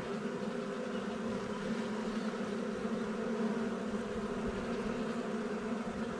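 A swarm of honeybees buzzing close by in a steady, unbroken hum.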